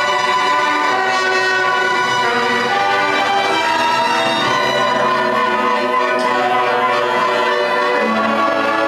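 Student orchestra playing, bowed strings and brass together in sustained, overlapping notes.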